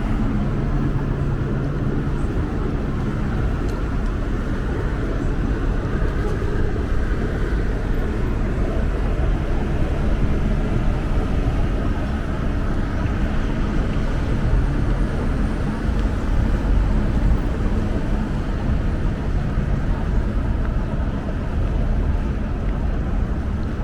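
City street traffic: a steady rumble of vehicle engines and tyres with a low engine hum.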